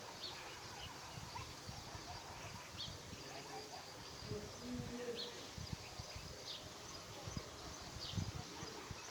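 Wind rumbling on the microphone, with short high bird chirps every second or two.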